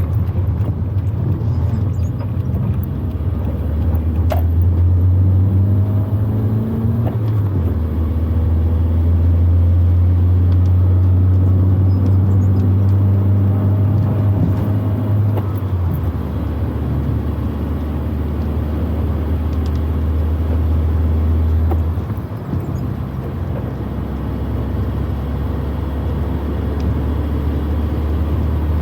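Proton Wira 1.5 manual's four-cylinder engine heard from inside the cabin while driving. Its steady drone changes pitch and load a few times as gears are changed, with a short dip about 22 seconds in.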